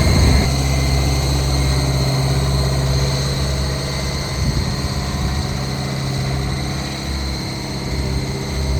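Diesel engine of heavy construction machinery running steadily at low speed, an even low hum.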